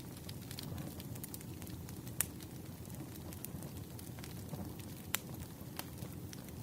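Wood fire burning: a steady low rumble of flames with scattered crackles, and two sharper pops, about two seconds in and again about five seconds in.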